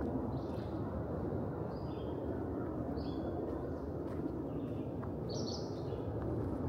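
Birds chirping in the woods: short high calls about once a second, the strongest a little past halfway, over a steady low rushing noise.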